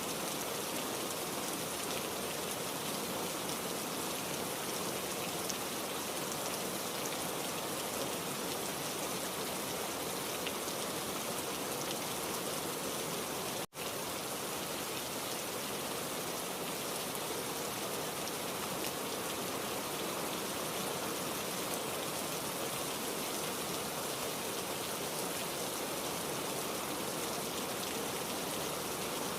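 Heavy rain falling steadily, an even hiss of drops on surfaces with no thunder. About halfway through, the sound cuts out for a split second and comes straight back.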